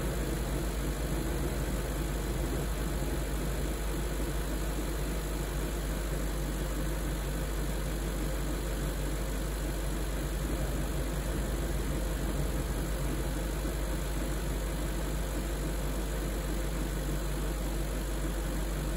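BMW E38 740i's 4.4-litre V8 idling steadily, warming up after a cold start.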